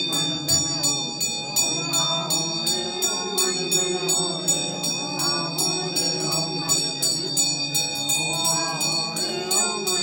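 Voices chanting together, with a small metal bell struck in a steady rhythm about three times a second and ringing on between strikes. This is typical of a Tamang Buddhist funeral rite.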